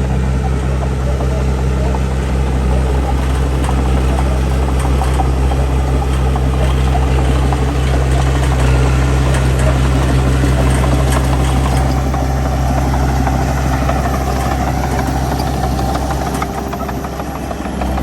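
Heavy diesel engine of earthmoving machinery running steadily with a deep, even drone, easing off slightly near the end.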